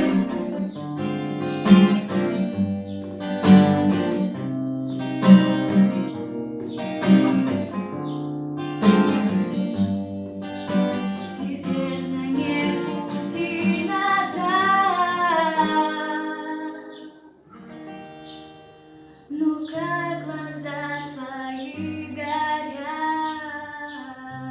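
Female voice singing an authored (bard) song with acoustic guitar: strummed chords roughly every second and a half, then a long sung line with vibrato, a short lull, and a quieter closing phrase with the guitar.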